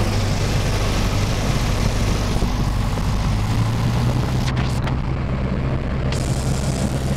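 Piper Cherokee's piston engine and propeller running steadily, heard from inside the cabin; the engine note rises slightly about three and a half seconds in.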